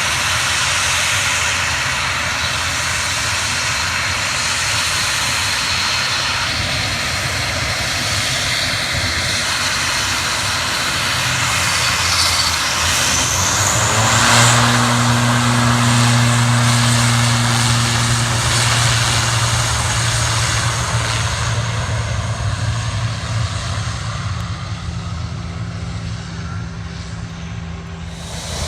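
Aircraft engines running loud and steady as a plane passes. A short rising whistle comes about halfway through and low steady hums join just after. The sound fades a little near the end.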